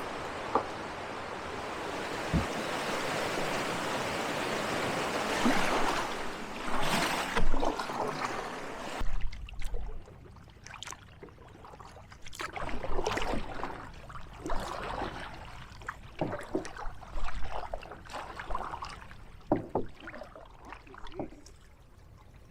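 Fast river water rushing for about nine seconds. After a sudden cut come quieter, irregular splashes and drips of a canoe paddle dipping into the water.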